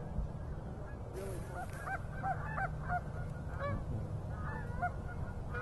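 A flock of geese honking at a distance, many short arched calls overlapping at irregular times, over a steady low background rumble.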